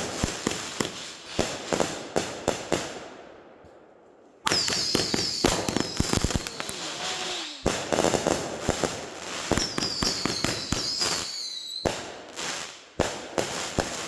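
Consumer fireworks going off in rapid strings of sharp crackling pops, in several bouts that start suddenly. Twice a high shrieking whistle slides down in pitch over a second or two.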